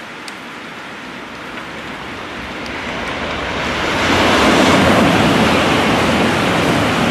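Shinkansen bullet train passing at speed: a steady rush of air and wheel noise that swells to its loudest about four seconds in and holds there.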